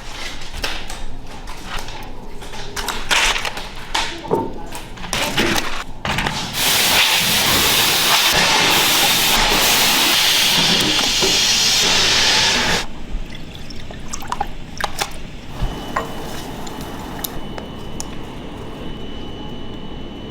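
Scattered knocks and clatter of work, then about six seconds of loud rushing water that stops suddenly, followed by more light clicks and knocks with a faint steady high tone near the end.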